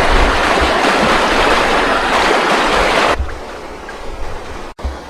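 Water rushing in a stream, loud and steady, cutting off suddenly a little after three seconds to a much quieter background of gently moving water.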